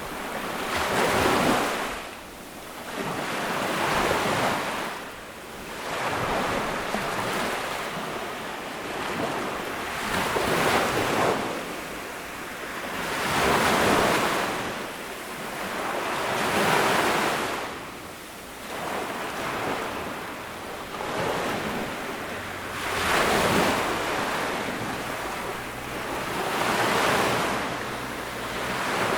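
Surf breaking on a sandy tropical beach, each wave swelling and washing back in turn, about one every three seconds, with some wind on the microphone.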